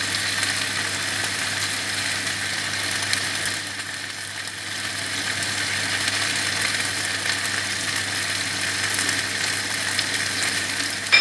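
Lettuce and chicken sizzling in a frying pan, a steady hiss, with a low steady hum underneath.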